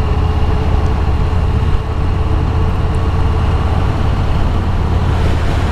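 Motorcycle riding at steady highway speed, heard from the rider's helmet: a constant low engine drone under heavy wind rush.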